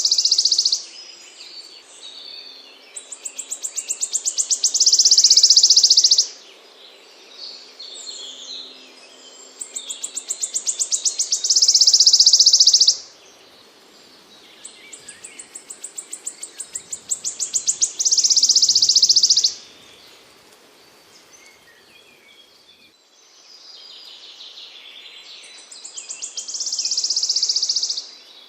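A small songbird repeating the same high song about every six to eight seconds: a trill of quick notes that speeds up and grows louder, ending in a dense buzzing stretch, each phrase lasting about three seconds. Fainter chirps fill the gaps between phrases.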